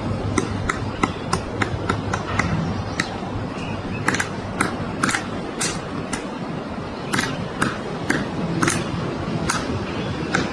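Woodpecker pecking into wood to excavate its nest hole: single sharp knocks at an irregular pace of about two a second, with short pauses, not a fast drumming roll.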